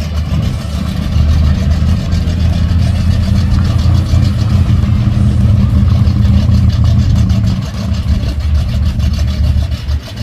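A classic car's engine running loud and close, with a deep, pulsing exhaust rumble.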